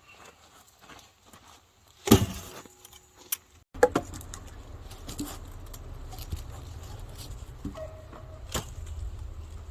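A hard strike about two seconds in that rings briefly, typical of an axe or maul hitting wood while splitting firewood. After a sudden change a steady low rumble runs under scattered knocks, with another sharp strike near the end.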